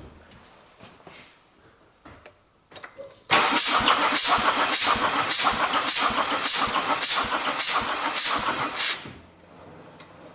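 Starter cranking a Mercedes OM651 four-cylinder diesel for about six seconds without it firing, beginning about three seconds in and stopping near the end. Air hisses out of a test hose in the open glow plug hole about twice a second, one puff for each compression stroke of that cylinder.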